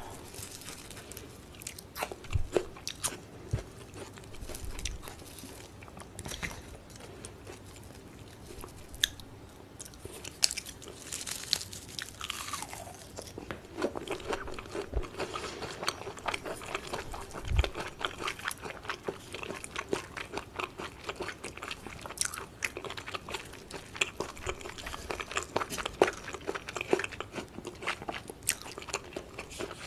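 Close-miked chewing and biting of raw beef tartare: a dense run of small, irregular mouth clicks and ticks, busier in the second half.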